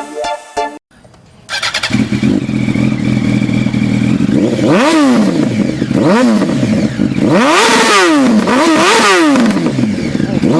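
Sportbike engine idling, then revved hard about five times, the exhaust note rising sharply and falling back with each blip.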